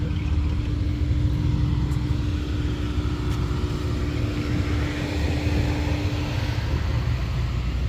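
Low rumble of a car engine running nearby, with a steady hum that stops about six and a half seconds in.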